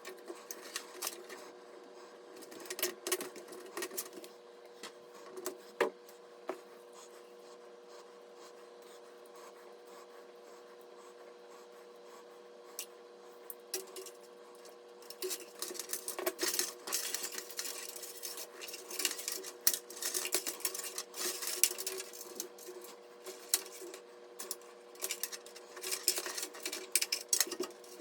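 Clicks, taps and light rattles of small hard parts being handled and fitted, sparse at first and busier from about halfway, over a steady hum.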